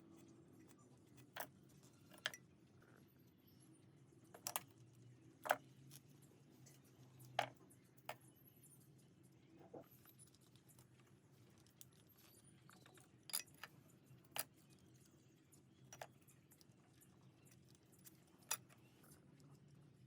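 About a dozen light, sharp clicks and taps at irregular intervals, like small metal parts or tools being handled, over a faint steady low hum.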